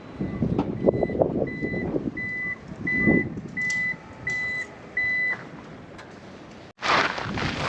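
A vehicle's reversing alarm: about eight evenly spaced single-pitch beeps, a little over one a second, growing louder, over gusty wind on the microphone. Near the end the beeping has stopped and a sudden loud rush of wind noise takes over.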